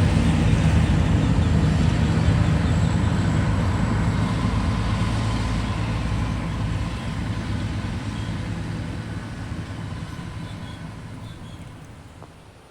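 A motor vehicle's engine running steadily with a low hum, fading gradually until it is faint near the end.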